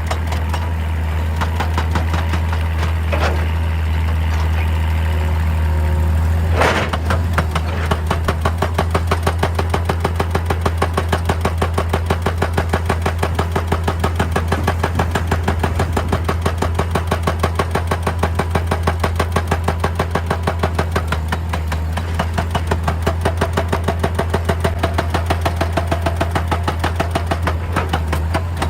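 Excavator diesel engine running steadily under load. From about seven seconds in, a hydraulic breaker hammer pounds rock in rapid, even blows, several a second.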